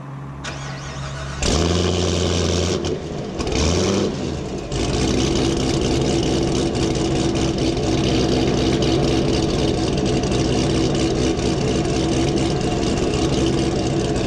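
A C7 Corvette Z06's supercharged 6.2 L V8, a freshly rebuilt engine, starting through a Corsa exhaust with Kooks long-tube headers, an off-road X-pipe and no catalytic converters. It fires about a second and a half in with a loud flare, rises in pitch once more a couple of seconds later, then settles into a steady idle.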